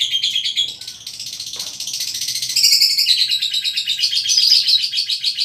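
Small birds chirping and chattering in a fast, continuous run of high notes, easing off a little about a second in and louder again from about halfway.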